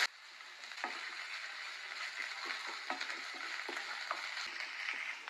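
Chopped onions with garlic and ginger paste sizzling in oil in a nonstick frying pan, stirred with a wooden spatula that scrapes and taps against the pan every so often.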